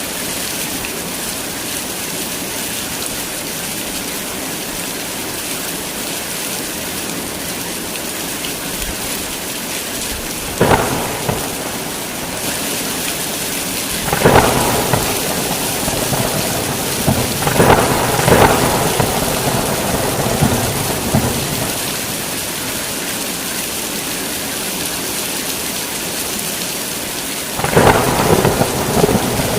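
Heavy rain falling with a steady hiss, broken by thunder: a crack about a third of the way in, a longer rumbling stretch in the middle, and another clap near the end.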